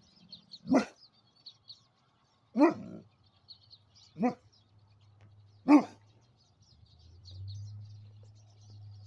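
A dog barking four single barks, one every second or two, with small birds chirping faintly and continually. A low steady hum comes in near the end.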